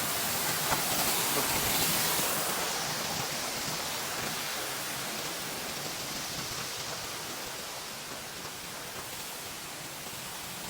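Waterfall's rushing water, a steady hiss that is loudest in the first couple of seconds and then slowly fades.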